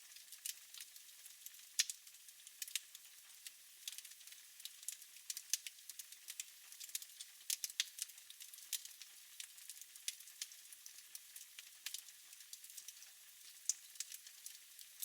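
Fire crackling in a fireplace: irregular sharp pops and snaps over a steady soft hiss.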